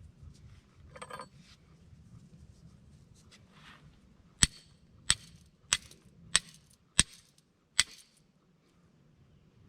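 Six sharp metallic clinks at an even pace, about one every two-thirds of a second, after a brief rustle.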